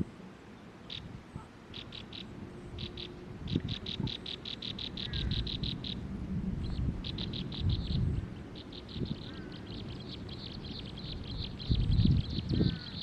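A bird giving rapid series of short, high chirps that come in bursts and run faster and longer as they go on, over scattered low thumps and rustling, with a louder thump near the end.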